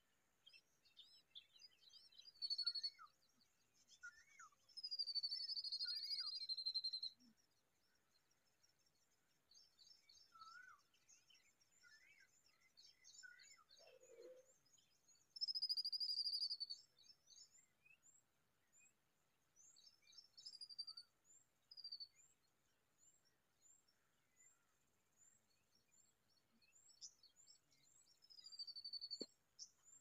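Birds chirping and calling: many short high chirps, with louder falling calls about 2.5 s in, from about 5 to 7 s, around 16 s and near the end. A soft low thud about 14 s in.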